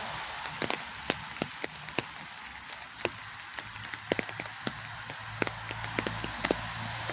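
Rain falling, with many large drops tapping irregularly on a nearby surface over a steady hiss of rain. A low steady hum comes in about halfway through.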